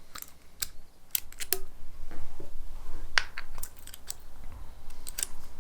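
Irregular light metallic clicks and taps of small pump parts being handled as springs, piston retainers and pistons are slotted into a Kranzle pressure washer pump's housing plate.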